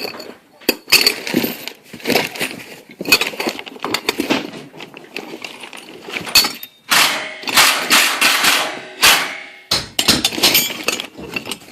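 Irregular cracks, knocks and clattering with scraping stretches between them, the sound of old garage door parts being torn out by hand.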